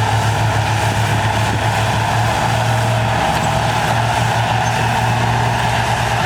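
Heavy earthmoving machine's diesel engine running steadily at an even pitch, with a constant deep hum.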